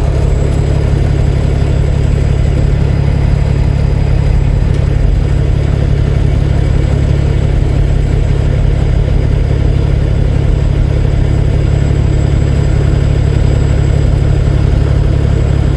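Semi truck's diesel engine running steadily at low speed, a deep even drone with no change in pitch.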